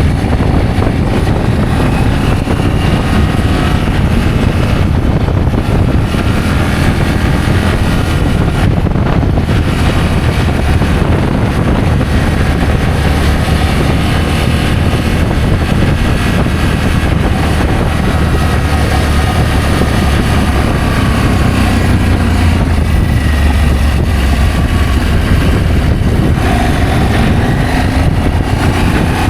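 Adventure motorcycle engine running while riding, its pitch slowly rising and falling with the throttle, mixed with steady wind rush on the microphone.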